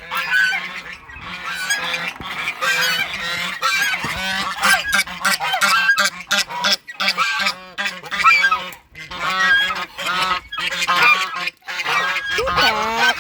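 A flock of domestic geese honking loudly, with many calls overlapping almost without a break.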